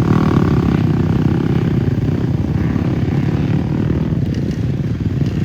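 Dirt bike engine running steadily with a rapid pulsing drone, a little brighter for the first second.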